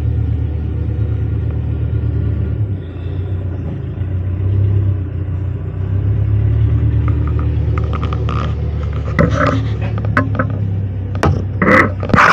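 A steady low rumble, with a string of clicks and metallic knocks over the last few seconds as the door handle of a 1950s Plymouth Belvedere is worked on a door that won't open.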